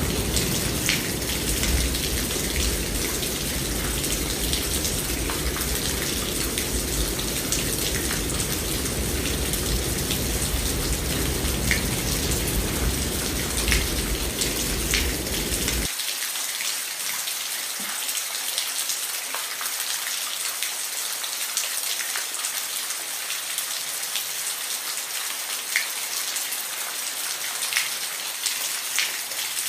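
Steady rain with distinct drops pattering, over a low rumble that cuts off suddenly about halfway through.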